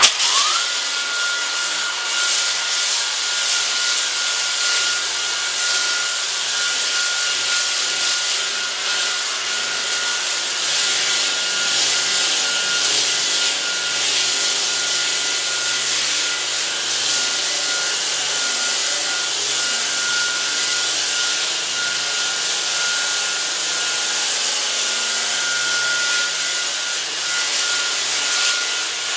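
Power tool with a sanding disc spinning up and then sanding old paint and rust off metal: a steady motor whine over a continuous abrasive hiss.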